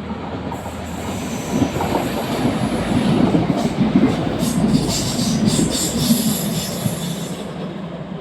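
Regional train running on the track, its wheels squealing on the rails over a steady rumble, with a run of clicks from the wheels in the middle. It grows louder toward the middle and eases off near the end, with the squeal stopping shortly before the end.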